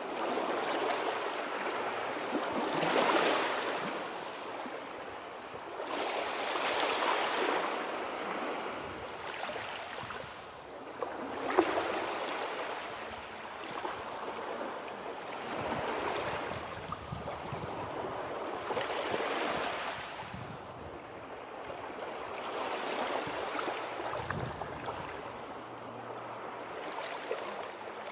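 Sea waves washing in, swelling and fading about every four seconds.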